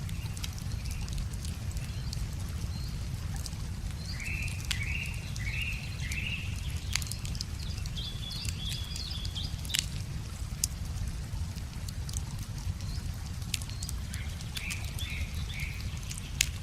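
Wood fire crackling with sharp pops every second or two, over a steady low rush of river water. Songbirds call: a run of four short falling notes a few seconds in, higher chirps in the middle, and more notes near the end.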